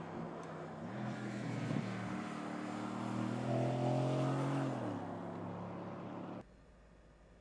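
Mercedes-AMG GT Coupé's twin-turbo V8 accelerating, its engine note rising in pitch with a step about two seconds in, then falling away about five seconds in. The sound cuts off abruptly near the end, leaving a faint hiss.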